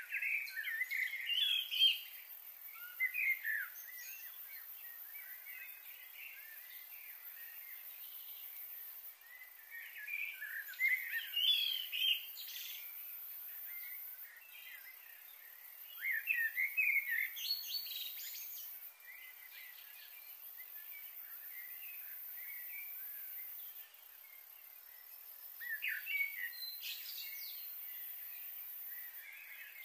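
Wild birds chirping in short clusters of quick calls, four bursts of a couple of seconds each, over a faint steady outdoor hiss.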